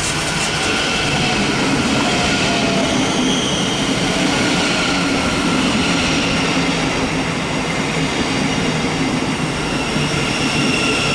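Thameslink Class 700 (Siemens Desiro City) electric multiple unit running into the station: a steady rumble of wheels on rail, with high steady tones from the wheels and running gear over it.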